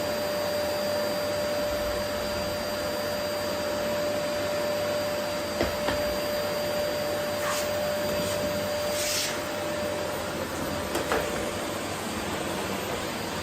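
Vacuum cleaner running steadily while it picks up rose petals from a wooden floor, with a steady whine over its rushing air. A few small clicks come through, and a brief higher hiss about nine seconds in, after which the whine fades a little.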